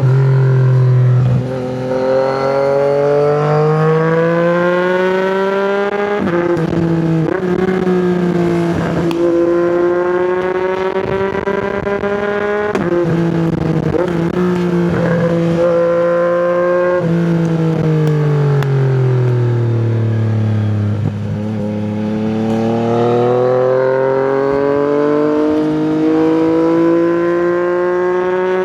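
Yamaha MT-09's inline three-cylinder engine through an Akrapovič exhaust, accelerating up through the gears, its pitch climbing and dropping sharply at each gear change. About two-thirds of the way in the revs wind down for several seconds as the bike slows, then it pulls up through the gears again.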